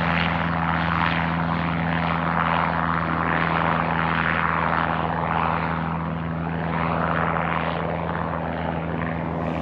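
Robinson R22 helicopter running close by: a steady low hum from its four-cylinder piston engine under a rushing rotor noise that swells and fades every second or two.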